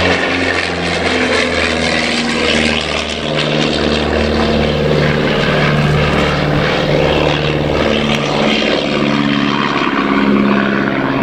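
Miles Gemini light twin flying a display, the propellers and piston engines running steadily, the engine note shifting up and down in pitch several times as it passes.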